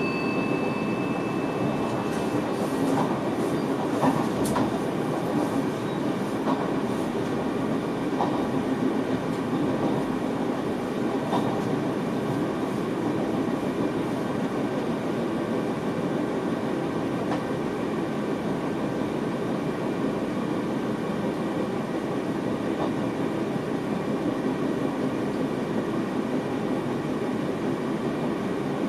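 An NS VIRM double-deck electric train running, heard from inside the driver's cab: a steady rumble of wheels on rail, with a few sharp clicks from rail joints or points in the first few seconds. A held tone fades out in the first second.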